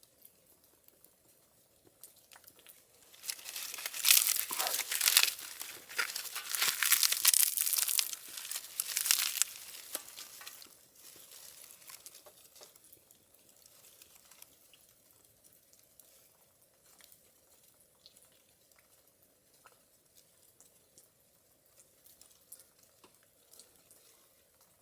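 Dry tinder or paper crumpled and torn by hand while a campfire is laid. A loud stretch of rustling and tearing runs from about three seconds in to about ten, followed by faint scattered clicks and crackles.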